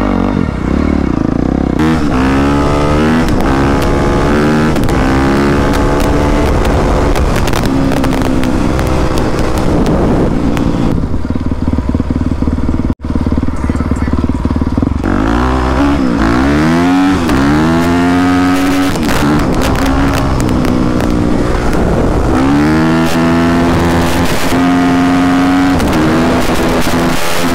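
Four-stroke single-cylinder dirt bike engine, riding along and revving up again and again, its pitch climbing and falling back with throttle and gear changes. The sound cuts out for an instant about halfway through.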